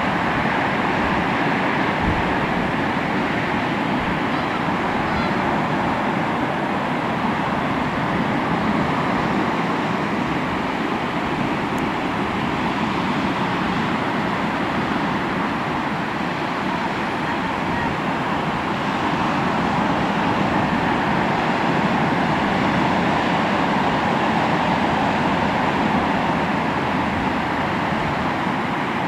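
Sea waves washing onto the shore: a continuous rush of surf that swells and eases slowly, with no single crash standing out.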